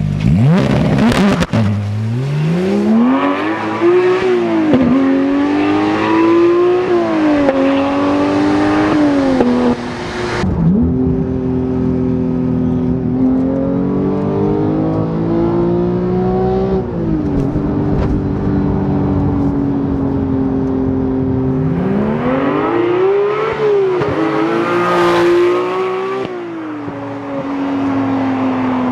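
Porsche 991 GT3's naturally aspirated flat-six exhaust, fitted with SOUL valved side muffler bypass pipes, accelerating through the gears: the pitch climbs and drops back at each upshift, several quick ones in the first ten seconds, then longer climbs and a steadier cruising stretch.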